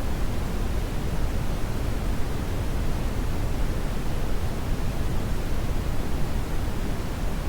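Brown noise: a steady, even rushing hiss weighted heavily toward the low end, with no events or changes.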